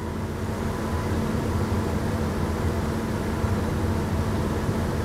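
Vehicle engine running steadily, a low even hum with no change in speed.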